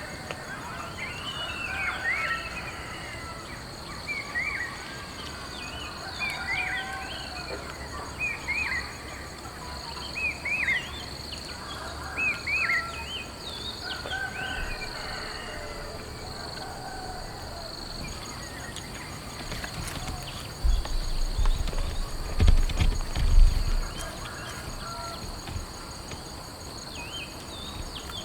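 Nature ambience: a steady high insect drone, with short repeated chirping calls every second or two through the first half. A few deep rumbling bumps come about three-quarters of the way through.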